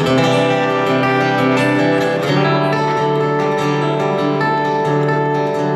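Acoustic guitar strummed in a steady rhythm, playing a song's instrumental intro before the vocals come in.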